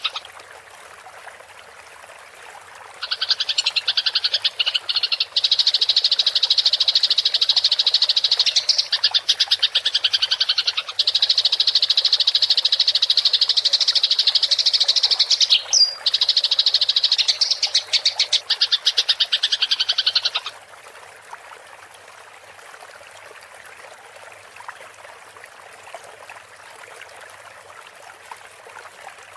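Eurasian tree sparrow giving its fast, rolling fighting chatter: a dense high-pitched buzzing trill that starts about three seconds in, runs in long bouts with brief breaks, and stops about two-thirds of the way through, leaving only a faint hiss.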